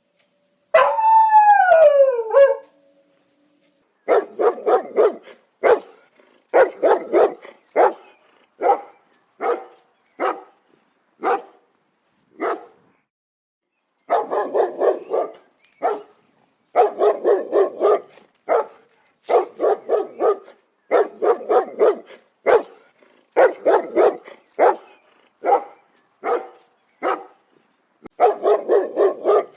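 Big dogs barking loudly in repeated quick volleys of several barks each, with short pauses between. About a second in there is one drawn-out call that falls in pitch, before the barking begins.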